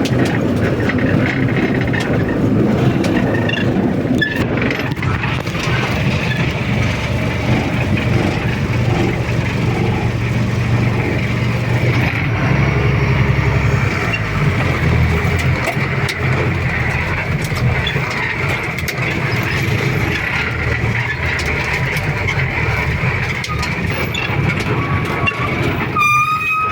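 Motor vehicle engines running steadily, with a short high tone near the end.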